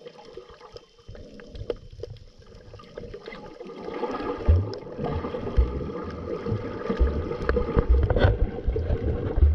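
Underwater sound through a GoPro's waterproof housing: scuba bubbles gurgling and rumbling, getting louder about four seconds in, with faint scattered clicks.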